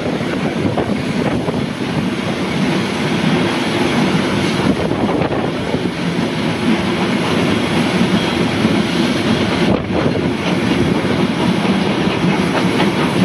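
Two vintage steam-hauled passenger trains running side by side on parallel tracks: the loud, steady rumble and clatter of carriage wheels on the rails.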